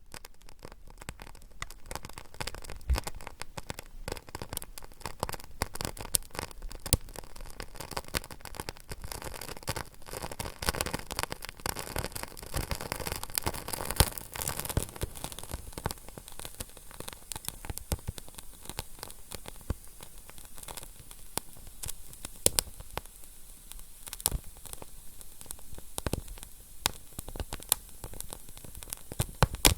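Fire crackling: a dense, irregular run of sharp pops and snaps over a soft steady hiss.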